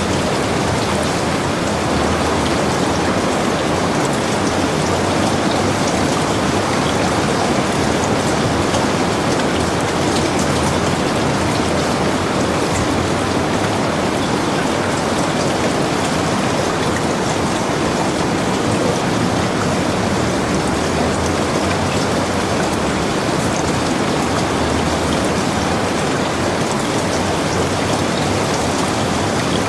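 Heavy rain falling steadily, a dense even hiss with many fine drop ticks on the cabin around it.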